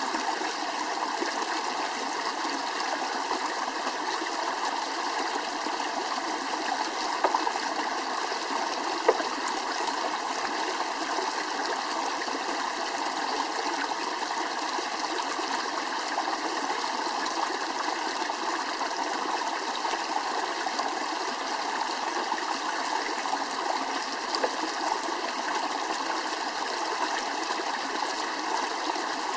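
Steady flowing water, like a stream, with a few faint clicks.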